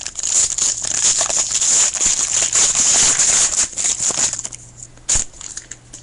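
A 2013 Panini Pinnacle Baseball card pack's wrapper being torn open and crinkled for about four seconds. A single sharp tap follows about five seconds in.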